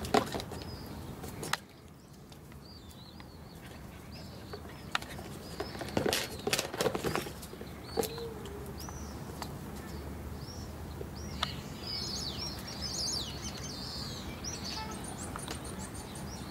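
Small birds chirping and twittering, busiest near the end, with a few sharp knocks around the middle.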